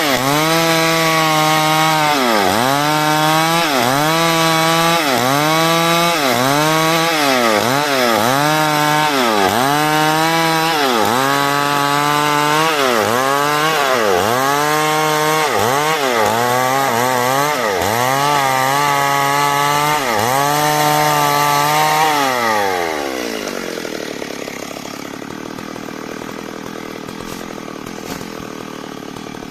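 Chainsaw cutting wood at full throttle, its engine pitch dipping briefly and recovering about once a second. Some twenty seconds in, the throttle is released and the engine winds down to a lower, quieter steady idle.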